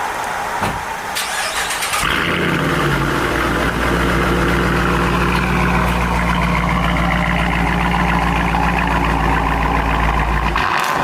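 Dodge Challenger with a newly fitted exhaust being started: brief cranking, then the engine catches about two seconds in and settles into a steady idle.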